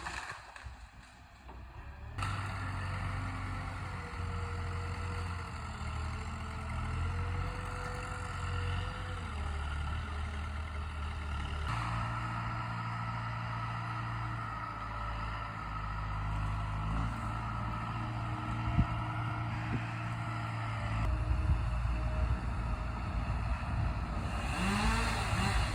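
Diesel engine of a Welte forestry skidder running, coming in abruptly about two seconds in. Its engine speed shifts twice, with a heavier low rumble near the end.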